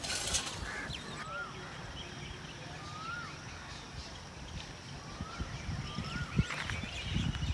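Outdoor morning birdsong: one bird repeats a short whistled call that rises then falls, four times, with fainter chirps from other birds behind it. A few low thuds come near the end.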